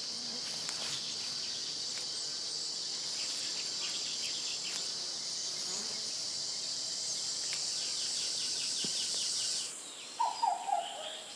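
A steady, high-pitched chorus of insects droning, with a run of rapid ticks partway through. The drone cuts off near the end, and a short pitched call follows.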